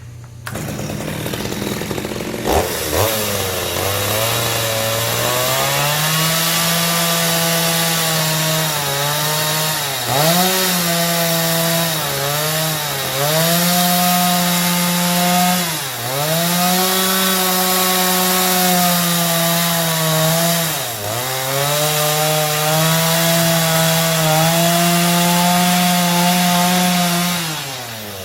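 Chainsaw revving up and cutting wood, its engine pitch sagging and recovering several times as it bites into the cut.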